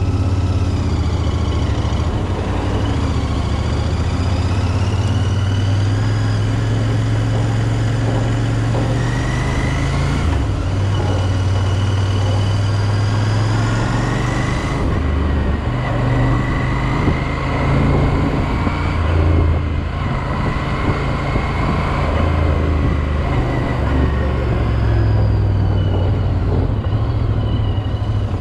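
Royal Enfield Interceptor 650's parallel-twin engine running as the bike rides in city traffic, its low note shifting up and down several times with the throttle, mixed with road and traffic noise.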